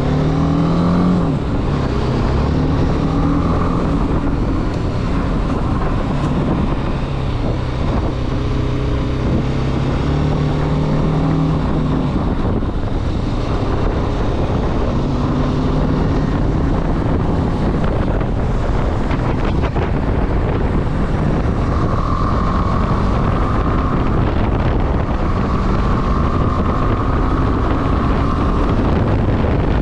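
Motorcycle engine running under way, its pitch climbing and dropping several times as the rider works the throttle and gears, with wind rushing over the microphone.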